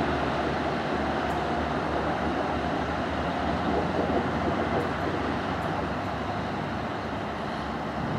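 Diesel multiple unit pulling away down the line, its engine and wheel noise steady and slowly fading as it recedes.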